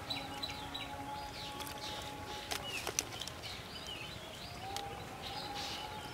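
Small birds chirping on and off, with a few sharp clicks and a faint steady drone underneath.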